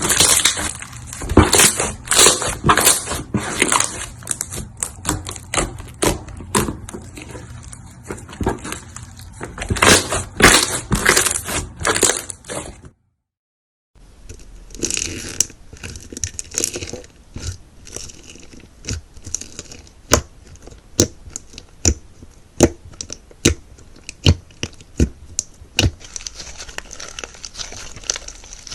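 Crunchy slime being squeezed and pressed by hand, giving off dense crackling and popping. It drops out for about a second around thirteen seconds in, then comes back as sparser, sharper pops and crackles with a soft crinkling underneath.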